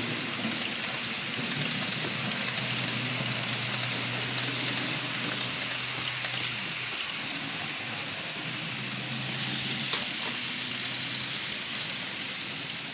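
Model train running on the layout: a steady electric motor hum that drops out about seven seconds in and returns, over a constant hiss.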